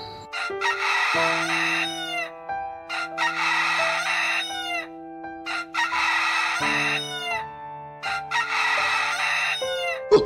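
A bird calling four times, each harsh call lasting a second or two and ending in a falling tail, over background music with long held notes.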